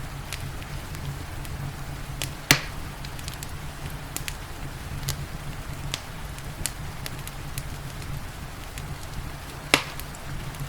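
Wood fire crackling in a fireplace, with scattered small crackles and two loud sharp pops, one about a quarter of the way in and one near the end, over a steady low rumble and the steady hiss of rain.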